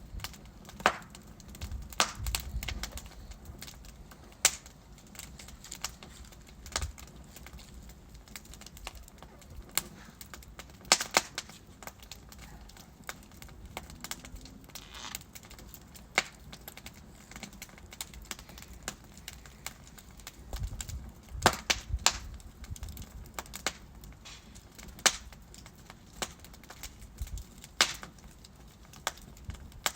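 Wood fire of burning logs crackling in a fireplace: irregular sharp pops and snaps over a low hiss of flame, with brief clusters of louder cracks.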